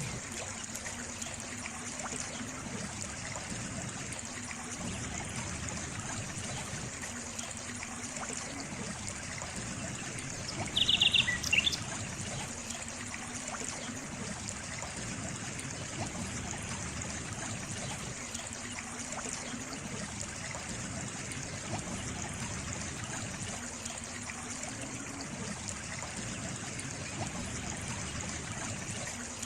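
Steady trickling of a small stream. About eleven seconds in, a bird gives a quick run of high chirps that lasts under a second.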